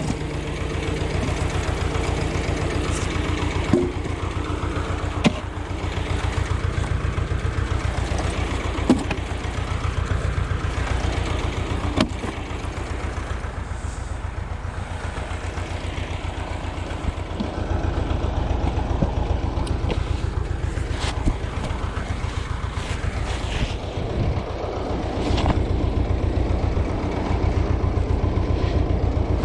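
Ursus tractor's diesel engine running steadily with an even low throb, its note swelling louder at times as the load changes. A few sharp single knocks sound over it in the first half.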